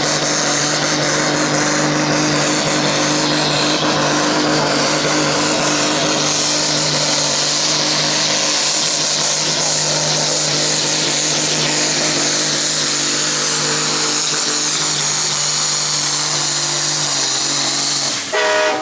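Farm tractor's diesel engine running hard at steady high revs under load through a tractor pull, its pitch held almost constant; near the end the engine note drops away as the pull ends.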